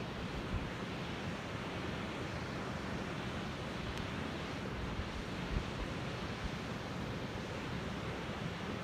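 Waterfall on a mountain stream rushing steadily, an even hiss of falling water, with a few soft low thumps.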